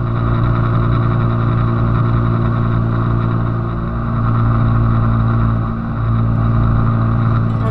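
Small single-cylinder motorcycle engine running at a steady speed while riding.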